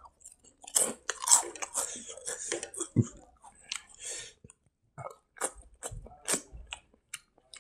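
A person chewing mouthfuls of rice and side dishes eaten by hand, picked up close by a clip-on microphone. The chewing runs dense for the first few seconds, then thins to scattered mouth clicks.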